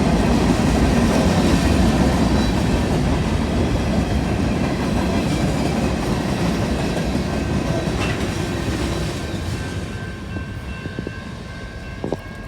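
BNSF mixed freight train rolling past, its cars and wheels on the rails making a steady rumble that fades over the last few seconds as the train moves away, with a single sharp click near the end.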